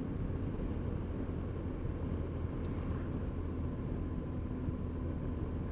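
BMW R1200 R boxer twin engine running steadily at cruising speed, picked up by a helmet-mounted camera microphone.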